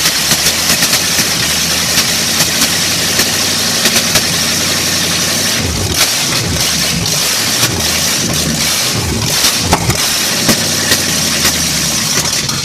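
Chevrolet 350 small-block V8 running loudly on a test fire, out of the truck, its speed rising and falling several times in the middle before it cuts off at the end.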